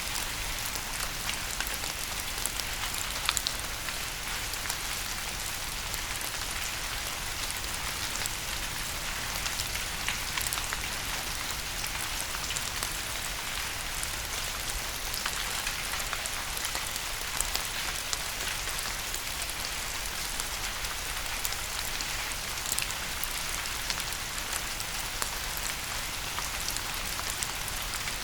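Steady rain: a constant hiss with many sharp, close drop ticks scattered through it.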